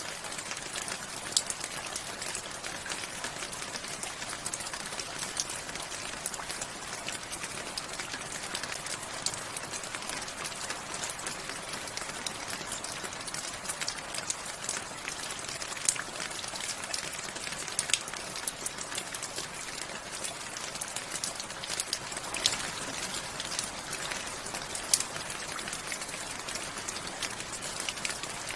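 Steady rain falling, an even hiss with many individual drops pattering close by, a few louder drops standing out now and then.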